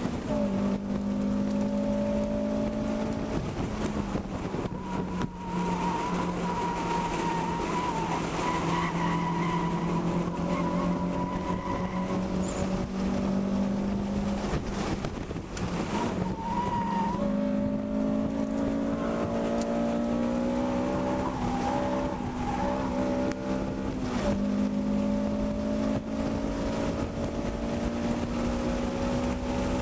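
2009 Honda Civic Si sedan's 2.0-litre four-cylinder engine under hard track driving, heard from inside the cabin. Its pitch drops a few seconds in and climbs again about halfway through, with tyres squealing in wavering tones through the corners in the middle stretch.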